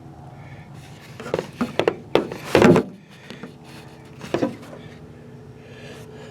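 Several sharp knocks and scrapes of something being handled, loudest about two and a half seconds in, with one more knock about four seconds in, over a steady low hum.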